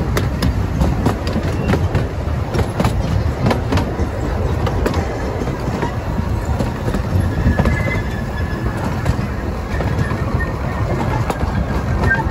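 Train running on the rails: a steady low rumble with irregular clicks and knocks from the wheels, and a faint high squeal in the second half.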